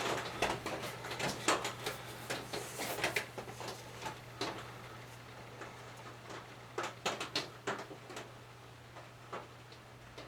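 Scattered light clicks and knocks of an oil bottle and funnel being handled as motor oil is poured into a small engine's dipstick tube, busiest in the first few seconds and again around seven seconds. A steady low hum lies underneath.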